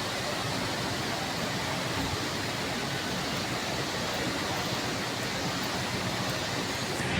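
Steady, even rushing noise of an MTR East Rail line train, with no clear rhythm or separate events.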